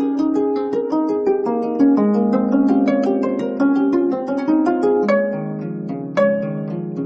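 A 25-string gayageum (Korean plucked zither) playing solo: a quick, flowing run of plucked notes that ring into one another. A little past halfway it thins to fewer, separately struck notes.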